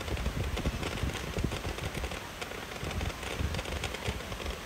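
Ground-level fireworks, fountains and small launch tubes, firing and crackling: a dense, rapid run of small pops and bangs without a break.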